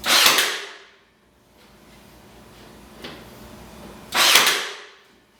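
Nail gun firing twice into pallet boards, about four seconds apart, each shot sharp and loud with a short fading tail.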